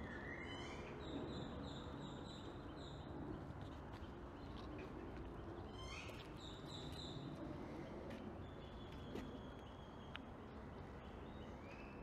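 Park ambience: birds calling over a steady low background hum. A bird gives a quick rising call and then a run of about six short repeated high notes about half a second in, and a similar call with a shorter run around six seconds in.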